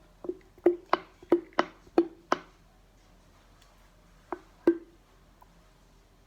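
Plastic bottle of vinyl glue knocked repeatedly against the container to get the last of the slow glue out: a quick run of sharp knocks, each with a short ring, then two more after a pause.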